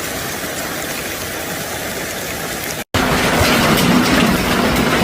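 Hail and heavy rain coming down, a steady rushing noise. Just before three seconds in the sound cuts out for an instant. It comes back louder, with a steady low hum underneath.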